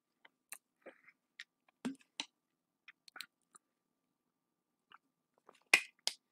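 Faint chewing and small mouth clicks, then a pause while drinking from a plastic bottle. Near the end, two sharp clicks close together as the bottle's lid is handled.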